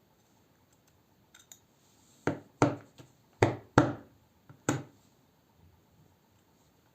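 Five sharp clicks from handling a folding knife and its parts during disassembly: two quick pairs and a single, each with a brief ring, with a few faint ticks around them.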